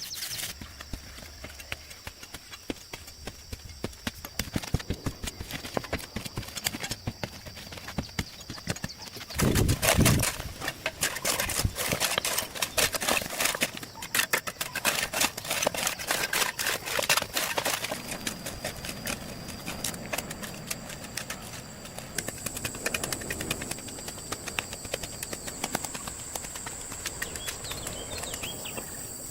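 A quick, irregular run of knocks and taps, with a heavy thump about ten seconds in, thinning out in the second half. Steady high-pitched chirring, like insects, runs underneath.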